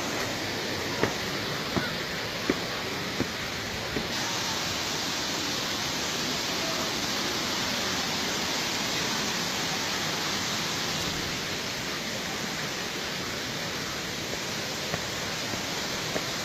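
Waterfall rushing steadily, a dense even hiss of falling water. A few short sharp clicks sound over it in the first four seconds and again near the end.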